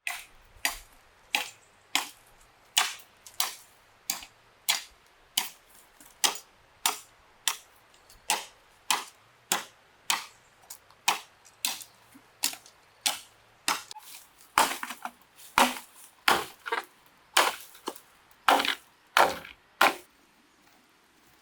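Blows of a hand tool on bamboo in a steady rhythm of about three strikes every two seconds. About two-thirds of the way through, the blows become louder and less regular, then they stop.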